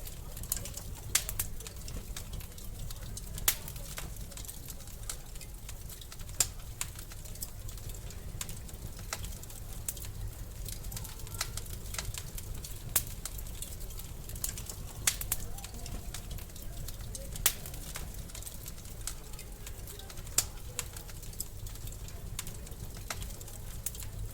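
Wood fire crackling in a fireplace: sharp pops and snaps at irregular intervals over a steady low rumble.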